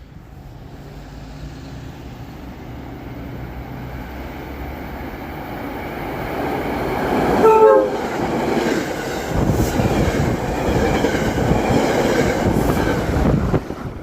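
Passenger train approaching and passing: a rising rumble, a short horn blast about halfway through that drops in pitch as the train goes by, then loud wheel clatter over the rail joints that cuts off just before the end.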